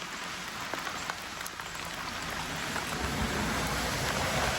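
Rain falling, a steady hiss that slowly grows louder, with scattered drop ticks. A low rumble joins about three seconds in.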